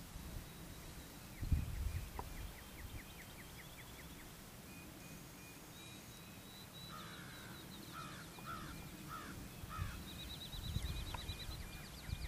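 Wild birds calling outdoors. Thin, rapid high trills repeat throughout, and midway comes a run of five or six harsh, caw-like calls about half a second apart. A few low rumbles come and go.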